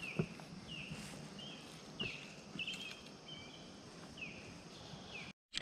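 A bird calling, with short chirps that drop in pitch repeated about one and a half times a second, a few of them drawn out a little longer. Two light knocks are heard about a fifth of a second in and about two seconds in, and the sound cuts out briefly near the end.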